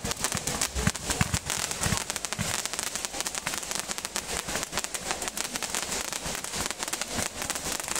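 Aerial fireworks going off: a dense, continuous run of rapid crackling pops, with a few louder bangs in the first two seconds.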